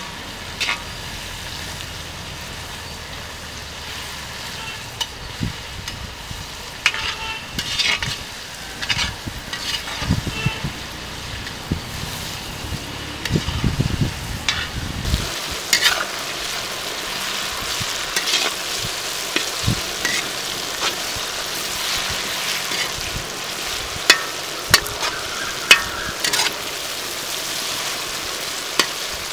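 Onions and tomatoes frying in oil in an iron kadai, sizzling while a perforated steel slotted spoon stirs and scrapes against the pan. The sizzle grows louder about halfway through, and a few sharp clinks of the spoon on the iron stand out near the end.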